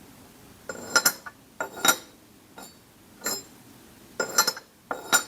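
Clay lid of a wood-fired Yixing zisha teapot being lifted and set back on the pot's opening, giving a series of clear, ringing clinks, a few every second.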